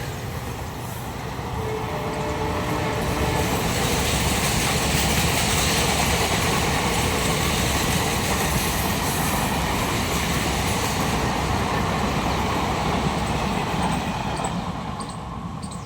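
Train running on the rails: a steady rumble of wheels and carriages that builds over the first few seconds, holds, and fades near the end.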